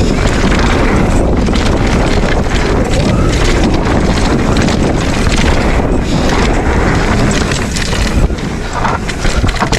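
Wind buffeting the microphone while riding a mountain bike, over a steady rush of tyres on dirt, with many short rattles and knocks from the bike over rough ground.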